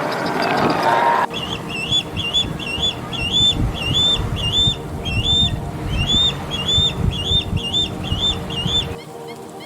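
A bird calling a repeated short high whistled note, about two a second, over a low rumbling background. The sound changes abruptly about a second in and again near the end.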